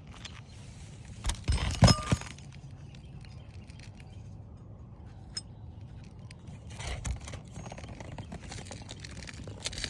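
Metal roofing tools knocking and clinking against asphalt shingles, a quick cluster of sharp strikes about two seconds in, followed by scraping and rustling of the shingles near the end.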